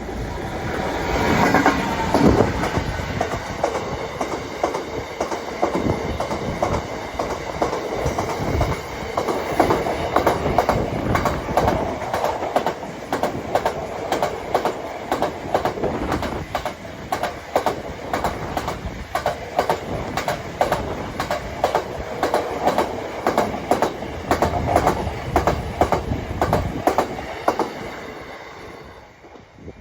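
Diesel-hauled freight train passing close by: a loud rush as the locomotive goes past about two seconds in, then a long string of wagons with a steady rhythm of wheel clacks over the rail joints, fading away just before the end.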